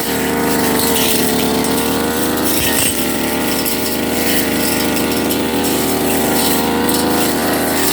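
Firman FGB389FI brush cutter engine running at high revs, a steady high-pitched drone whose pitch wavers slightly as it cuts grass.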